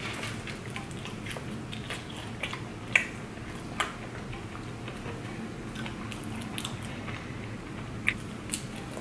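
A man chewing a mouthful of banana Nutella empanada close to the microphone, with many small mouth clicks; the two sharpest come about three and four seconds in.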